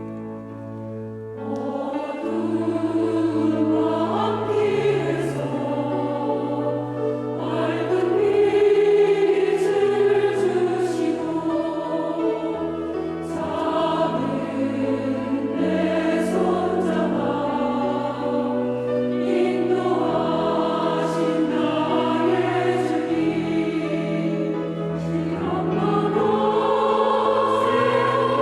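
Church choir singing a hymn in several voice parts over sustained accompaniment, coming in about a second and a half in.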